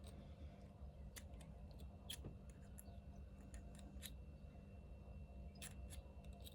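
Faint scattered metallic clicks and taps as new spark plugs are handled and their electrode gaps are opened up with a small gapping tool, over a low steady hum.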